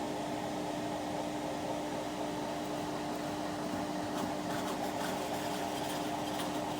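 A steady mechanical hum with one constant low tone, joined by faint high ticks about halfway through.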